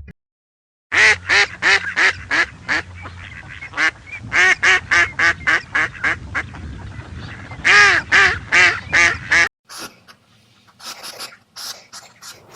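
A bird calling in a rapid run of short, arched calls, about four a second, in several bouts. About nine and a half seconds in it cuts to a quieter, sparser series of short sharp sounds.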